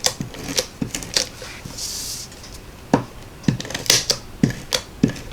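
Stampin' Seal tape-runner adhesive being run across cardstock: scattered clicks and taps, with a short rasping zip about two seconds in.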